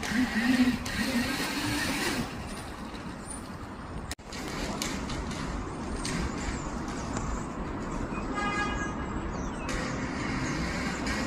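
Gecko Mini 1.4 electric kids' dirt bike being ridden, a steady running noise from its motor and tyres with a wavering low hum in the first couple of seconds. The sound drops out sharply for a moment about four seconds in.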